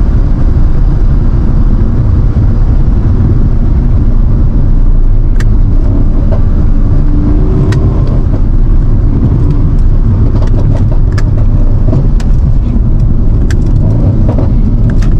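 Twin-turbo 4.0-litre V8 of a tuned 2016 Mercedes-AMG C63 S, heard from inside the cabin as the car cruises and slows from highway speed: a loud, steady low rumble. Several sharp clicks or pops sound over it in the second half.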